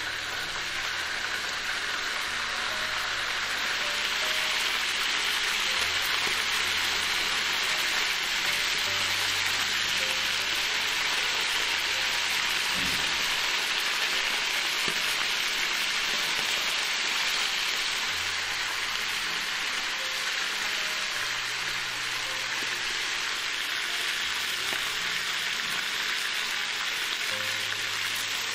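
Marinated chicken drumsticks frying in a stainless steel pan, a steady sizzling hiss.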